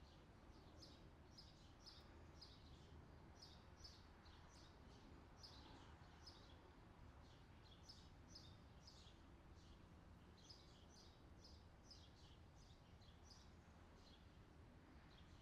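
Faint outdoor summer ambience track: small birds chirping in quick, repeated short notes over a steady low background hiss.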